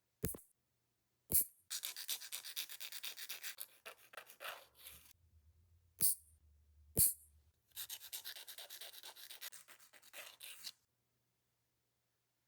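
Nail file rasping against a nail in two bouts of quick back-and-forth strokes, with four sharp clicks before and between the bouts.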